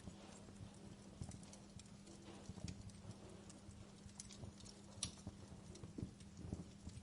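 Wood fire burning in a fireplace, crackling with irregular small pops and snaps over a faint steady low hum.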